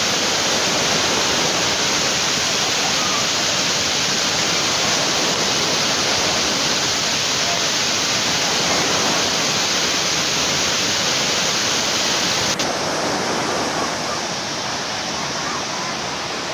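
Waterfall: a steady, loud rush of falling water. About twelve seconds in, the sound abruptly turns duller, losing much of its hiss.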